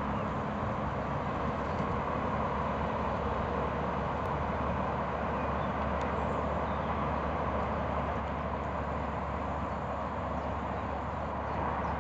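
Steady, even hum of distant road traffic, with no distinct events standing out.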